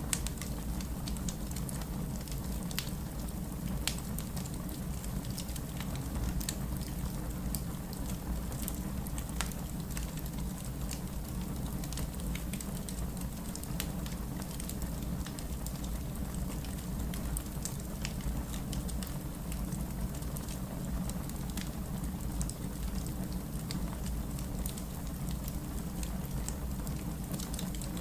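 Wood fire crackling in a fireplace: a steady low hiss and rumble of flames with frequent sharp pops and snaps scattered irregularly throughout.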